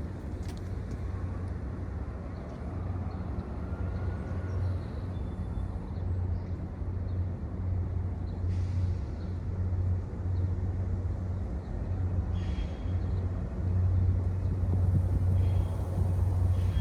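Diesel locomotive engine running steadily, a low pulsing rumble that grows somewhat louder toward the end.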